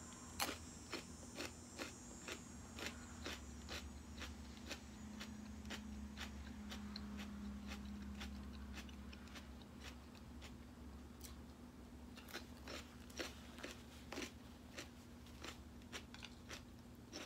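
Close-up crunchy chewing of raw celery topped with chicken salad: a run of crisp crunches, about two a second, over a steady low hum.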